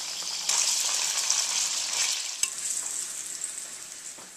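Cucumber slices frying in hot vegetable oil in a pan: a steady sizzle that fades toward the end, with one light click about two and a half seconds in.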